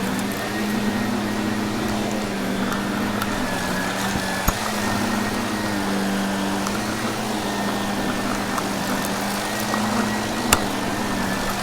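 Vacuum cleaner running steadily on carpet, its motor humming under a rushing hiss of suction. Debris is picked up with a couple of sharp clicks, one near the middle and one near the end.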